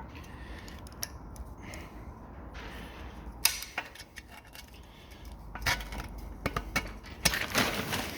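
Metal tools clinking and scraping against a Ford Pinto engine block as a stuck core plug is worked loose and levered out, in scattered taps with louder scraping clatters about three and a half seconds in and again near the end.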